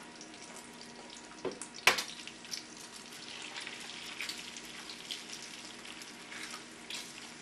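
Egg and bacon frying in bacon grease on an electric griddle: a steady crackling sizzle that gets a little stronger once the egg is on. A sharp knock comes about two seconds in.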